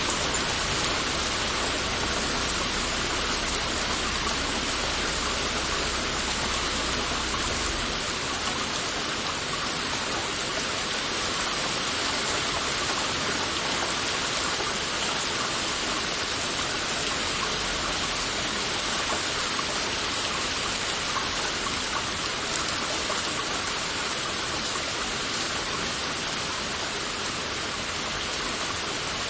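Heavy rain falling steadily, a dense, even hiss of many drops with no let-up. A low rumble lies underneath for the first several seconds, then drops away.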